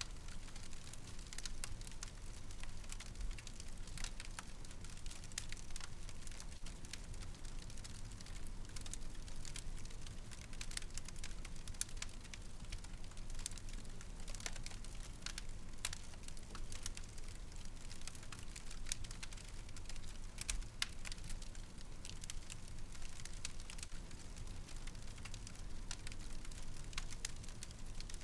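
Wood fire crackling in a fireplace: irregular sharp pops and crackles scattered over a soft low rumble of the flames.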